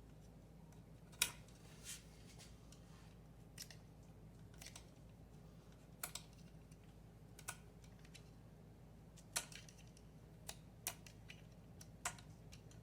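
About a dozen sharp clicks and light taps, irregularly spaced, over a low steady hum.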